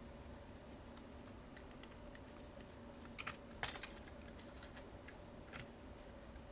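A few small clicks and taps from the metal internal frame of a Sony a7s camera being eased out of the body, two sharper ones a little past the middle and one more near the end, over a faint steady hum.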